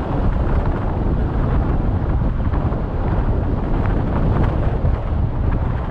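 Wind buffeting the microphone: a steady, loud, fluttering rumble.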